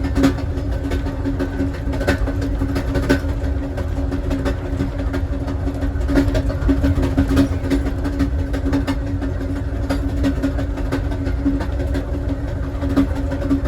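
A passenger train in motion, heard from inside its last car. There is a steady low rumble of wheels on rail under a constant hum, with scattered irregular clicks and rattles.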